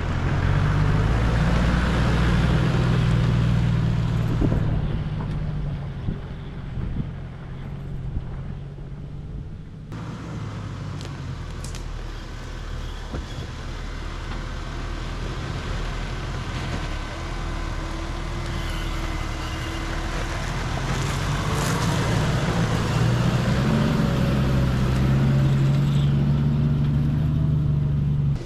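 Toyota Landcruiser Troop Carrier engine running as it is driven, its pitch rising and falling. It is loudest over the first few seconds and again toward the end.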